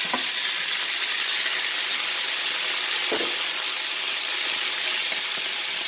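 Hot dogs frying in a hot nonstick skillet of butter and sauce, giving a steady sizzling hiss.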